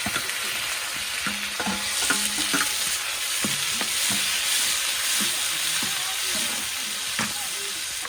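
Food sizzling steadily in hot oil in a pan, stirred with a utensil that scrapes and knocks against the pan every so often.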